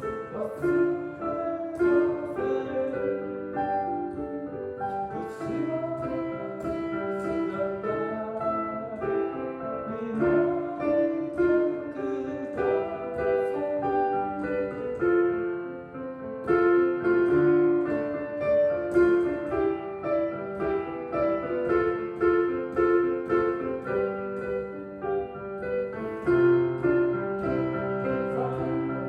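Piano being played: a melody over chords, notes struck and left to ring.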